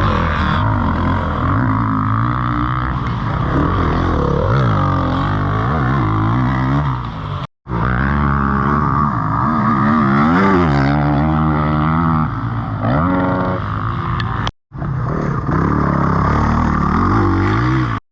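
Yamaha WR450F single-cylinder four-stroke dirt bike engine being ridden hard, revving up and down again and again as the throttle is worked through corners and jumps. The sound cuts out abruptly twice for a moment.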